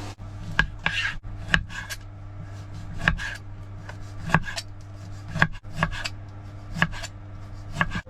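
Kitchen utensil knocks: sharp clacks, mostly in pairs, about once a second, some with a short metallic ring. Under them runs the steady hum of a range hood fan.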